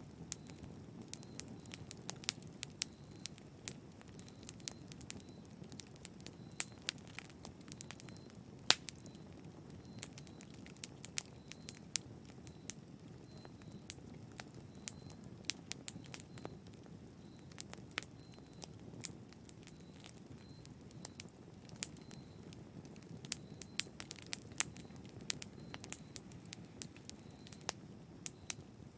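Wood fire in a fireplace crackling, with frequent irregular sharp pops and snaps over a steady low rush of burning.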